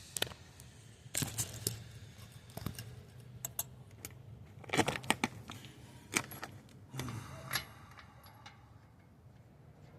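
Metal hardware being handled: a string of sharp metallic clicks and clinks, with a cluster of rattles about five seconds in, then it goes quieter near the end.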